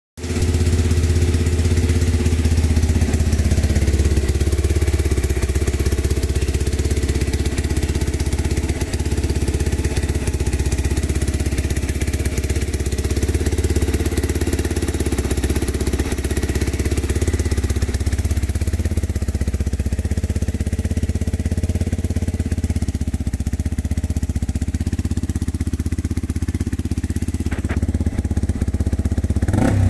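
Yamaha Serow 225 (1KH) single-cylinder four-stroke engine idling steadily through an aftermarket muffler.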